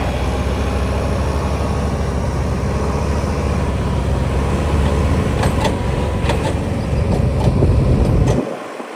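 Heavy diesel engine running steadily under load, with a few sharp clicks or rattles in the second half. It cuts off abruptly near the end.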